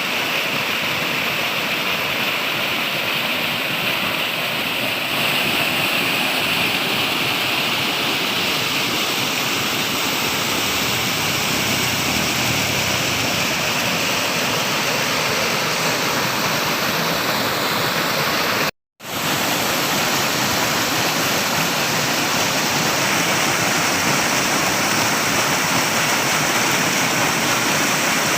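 Flowing water rushing steadily, like a stream or small waterfall. About two-thirds of the way through, the sound cuts out completely for a fraction of a second and then resumes.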